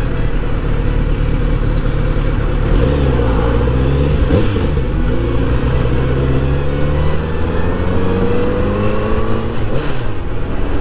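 Kawasaki inline-four motorcycle engine pulling under way with wind rush on the mic. The engine note dips around three seconds in, then climbs steadily as the bike accelerates in the latter half.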